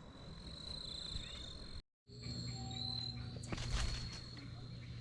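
Insects trilling steadily at a high pitch, broken by a moment of dead silence about two seconds in. After it, a low steady hum joins and a short knock is heard near the four-second mark.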